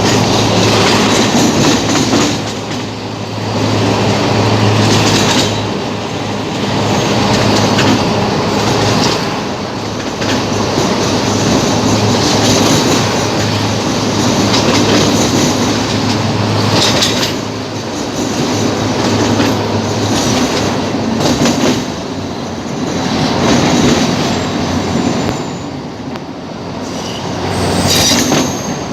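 Train running on rails, a continuous loud rumble with a steady low hum and wheel clatter. Wheels briefly squeal a couple of times, about halfway through and near the end.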